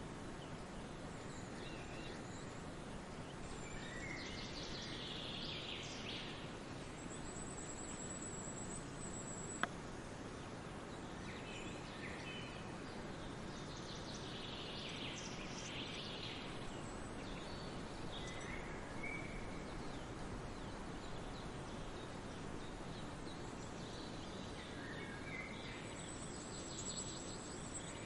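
Forest ambience: a steady rush of wind and distant falling water under songbirds calling every few seconds, including a long, thin, very high note heard twice. A single sharp click about ten seconds in.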